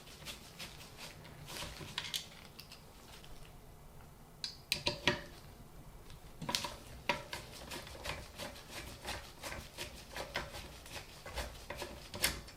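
Screws being worked out of a ceiling fan's blade mount with a hand screwdriver and the blade handled: irregular small metallic clicks and scrapes, with a louder cluster of knocks about five seconds in and another near the end.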